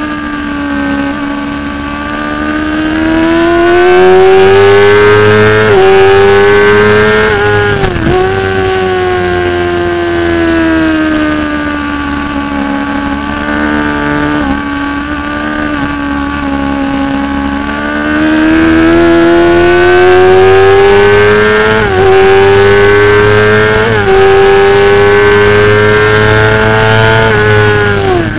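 600 cc Supersport racing motorcycle engine at race pace, heard from on board. Its pitch climbs and falls in long sweeps with the throttle and gear changes, with a quick sharp dip about eight seconds in.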